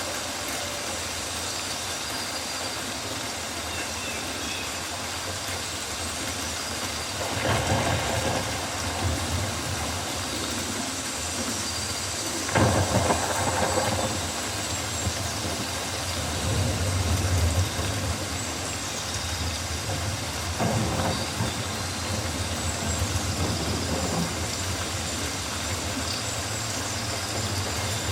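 Steady rain in a rainforest, an even hiss of falling drops, swelling louder a few times.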